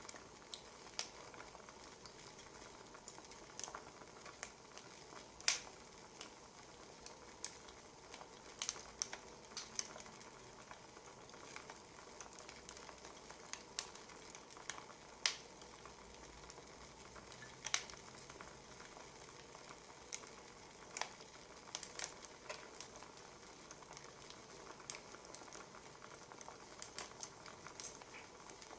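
Wood fire crackling: irregular sharp pops and snaps, a few of them louder, over a soft steady hiss.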